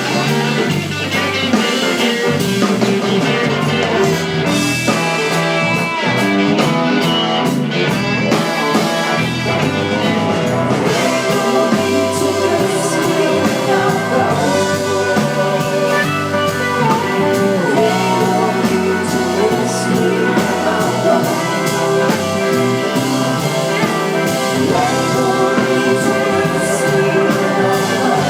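Live blues-rock band playing, with electric guitar lines over bass and drum kit.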